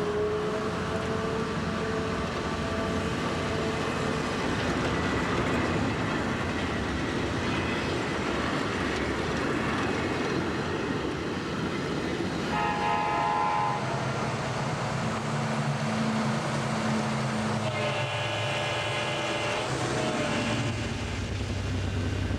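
A train running with a steady rumble, and its horn sounding twice: a short blast about halfway and a longer one near the end.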